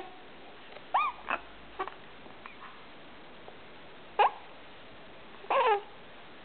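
A small animal squeaking: about half a dozen short, arched squeaks at irregular intervals.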